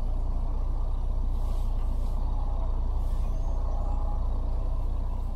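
Narrowboat diesel engine running steadily, a deep even throb with a fast regular pulse.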